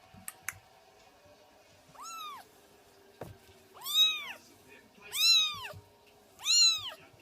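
Kitten meowing four times, each a high call that rises and falls in pitch. The first is fainter; the last three are loud and come about a second apart. Two small clicks near the start and a short knock between the first and second meows.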